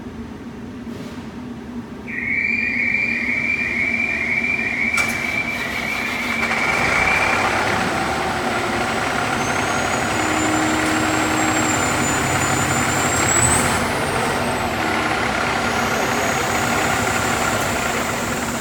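A fire truck's engine is cranked and starts about two seconds in, with a repeating cranking pattern for several seconds, then runs steadily. A thin high whine rises over several seconds midway through.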